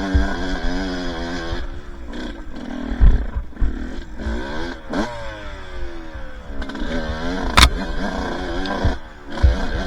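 Two-stroke dirt bike engine on a trail ride, its pitch wavering with the throttle, dropping off for a few seconds, then a quick rev near the middle that falls away. Several sharp knocks and thumps from the bike over rough ground.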